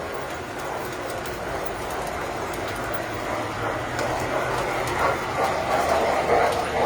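Tinplate model train running on its track: a steady motor hum with the clatter of wheels on rail, getting louder about four seconds in.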